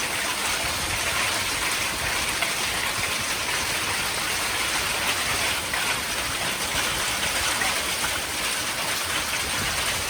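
Hail and heavy rain coming down hard in a dense, steady, unbroken patter.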